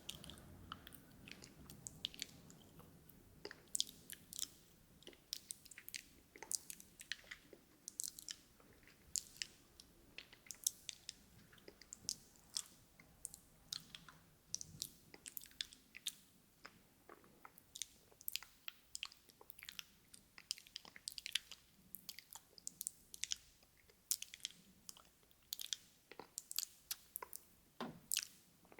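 Close-miked ASMR mouth sounds: wet, sticky clicks and smacks of the lips and tongue, irregular, a few each second.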